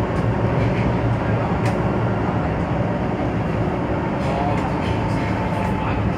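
Cabin noise of an MTR South Island Line S-Train in motion: a steady low rumble with faint steady tones above it.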